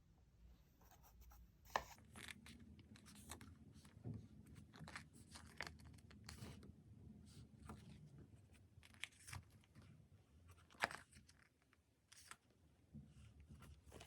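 Faint, close-up paper and sticker handling: stickers peeled off their backing and pressed onto a diary page, with light crinkling and scratching and two sharp clicks, one about two seconds in and one near eleven seconds.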